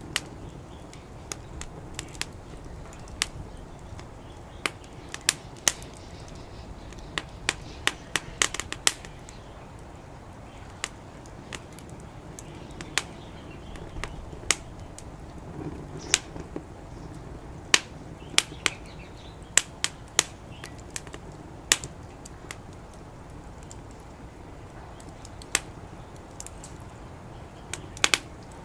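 Wood fire crackling, with irregular sharp pops, sometimes several in quick succession, over a low steady background.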